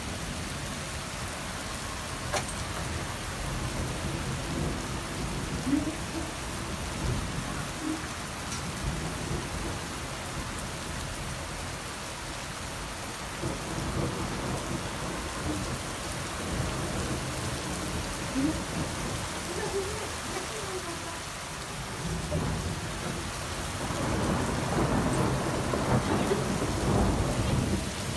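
Thunderstorm: rain falling steadily while thunder rumbles, with a louder rolling rumble building near the end.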